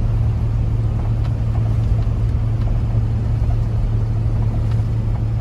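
Steady low drone of engine and road noise inside a moving RV at highway speed, with a constant low hum.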